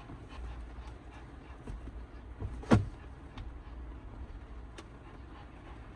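A Pomeranian dog in a small van's cabin, making one short, loud sound a little under three seconds in whose pitch drops quickly, over a steady low background hum.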